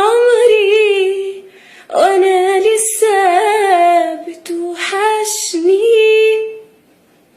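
A woman singing an Egyptian Arabic love song unaccompanied. She sings three long, ornamented phrases with audible breaths between them, ends on a held note, and then stops.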